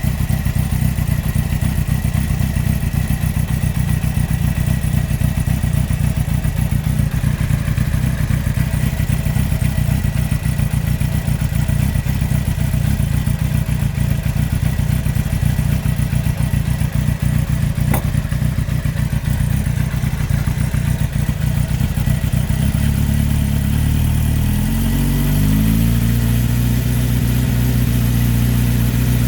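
2003 Yamaha R1's inline-four engine running with a knock from a failed big-end bearing on cylinder number 4. It runs steadily, then is revved up and down a few times near the end.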